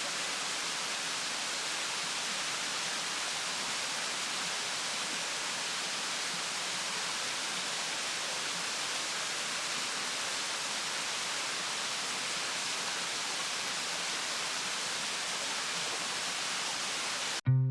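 Steady, even hiss with no separate sounds in it, like rushing water. It cuts off abruptly near the end, where guitar music begins.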